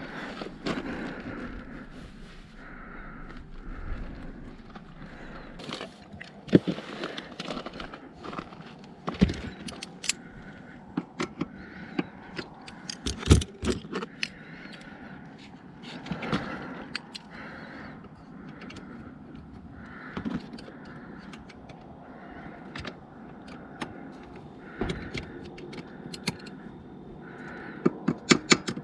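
Irregular clicks, knocks and scrapes, like small hard objects being handled, with a few sharp louder knocks about six, nine, thirteen and twenty-eight seconds in.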